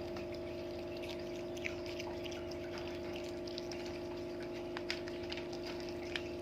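Steady mechanical hum, like a small pump or motor running, with faint scattered clicks and a few brief high chirps over it.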